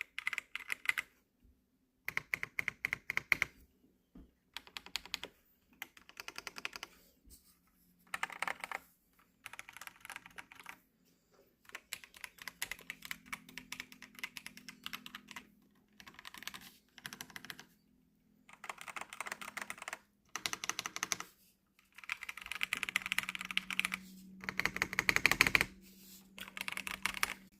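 Typing on a Womier VK66 mechanical keyboard: bursts of rapid key clicks broken by short pauses, with a longer, denser run of typing near the end.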